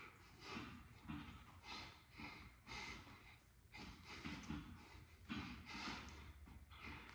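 A person breathing hard in short, quick breaths, about two a second, faint.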